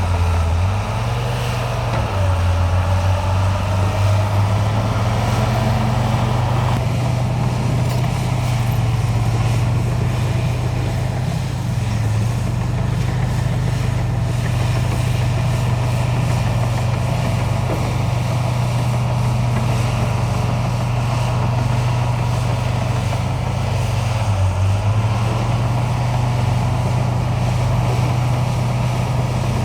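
Heavy construction machinery's diesel engine running steadily at work, its pitch dipping briefly a couple of times near the start and once more about 24 seconds in.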